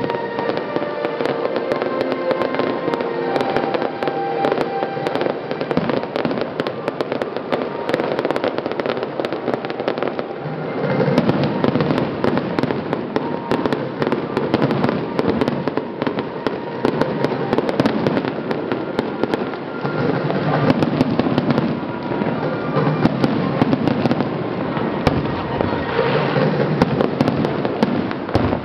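Aerial fireworks bursting in quick succession, a dense run of sharp pops and crackles over music, with the booms growing fuller and louder about eleven seconds in.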